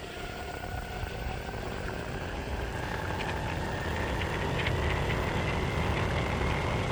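Meepo Hurricane electric skateboard accelerating: its motor whine climbs slowly in pitch over the rumble of honeycomb wheels on pavement, growing louder as the board picks up speed.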